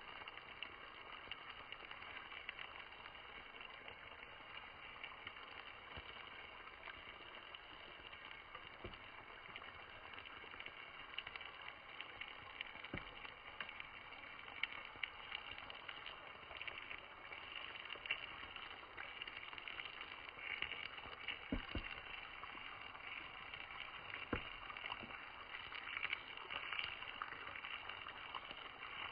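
Wood campfire crackling: a steady high hiss with scattered sharp pops that grow more frequent in the second half.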